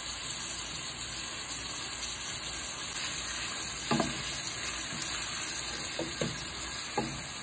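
Chicken pieces frying in oil in a nonstick pan, with a steady sizzle. In the second half, a wooden spatula stirs them and knocks against the pan about four times.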